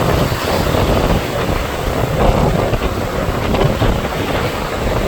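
Strong gusty wind buffeting the microphone: a loud, dense rumbling noise.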